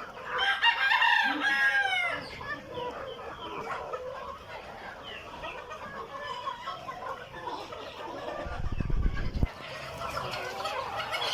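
A rooster crows at the start, one long call falling in pitch, over hens clucking. A brief low rumble comes about three-quarters of the way through.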